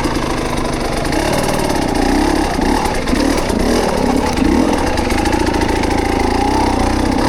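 Dirt bike engine running at low speed on a trail, its revs rising and falling as the throttle is worked.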